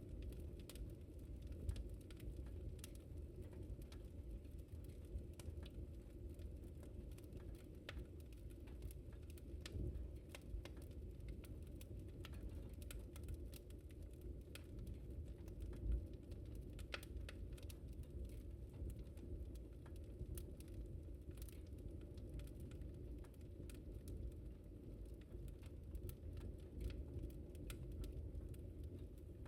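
Wood fire crackling in a fireplace: irregular small pops and snaps over a low, steady rumble, with one louder pop a little past halfway.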